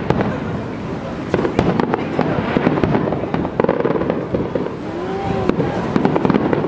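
Aerial fireworks shells bursting one after another, a dense run of bangs and crackles.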